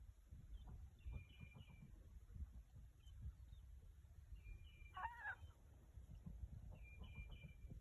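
Faint, scattered gull calls: short clipped calls about a second in and again near the end, and one clearer call about five seconds in, over a low rumble.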